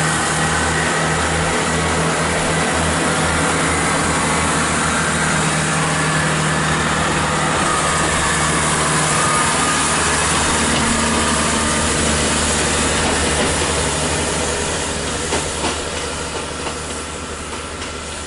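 Diesel multiple-unit trains with underfloor diesel engines running steadily as a unit passes close by, with the noise of wheels on rail. The sound fades in the last few seconds, with a few sharp clicks.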